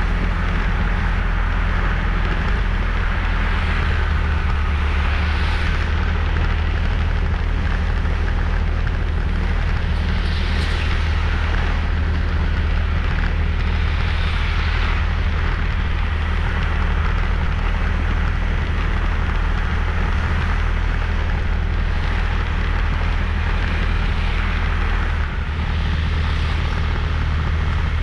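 Riding a motorbike: wind buffeting the microphone as a steady low rumble, with the engine and road noise running underneath. A higher hiss swells and fades a few times.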